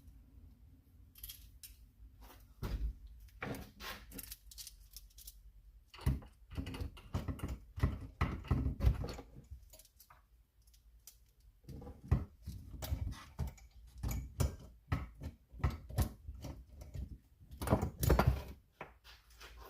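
Hand work on a chainsaw: the guide bar and chain being fitted back on, a string of metal clinks, knocks and rattles that come in busier clusters about 3, 6 to 9, 12 to 16 and 18 seconds in.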